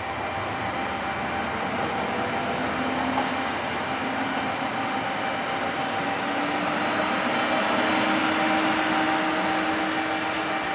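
Diesel train running at the station, a steady engine noise with a lower tone that rises slowly in pitch as it grows louder.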